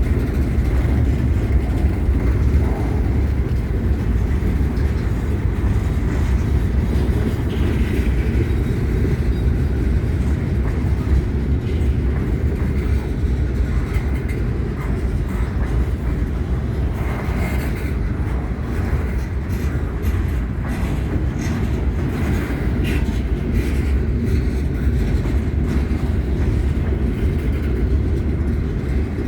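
Freight train rolling past with a steady low rumble, with scattered faint clicks from its wheels on the rails.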